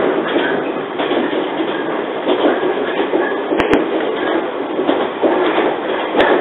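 Running noise heard inside a JR 115-series electric train under way: a steady rushing and rattling of the moving car. Two sharp clicks come close together about three and a half seconds in, and another comes near the end.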